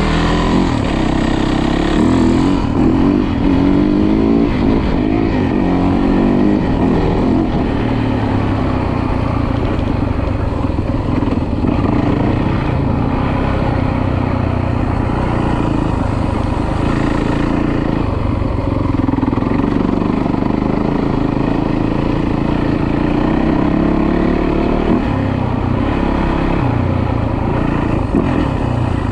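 Dirt bike engine running as it is ridden, its revs rising and falling again and again, with a longer steady climb in revs near the middle.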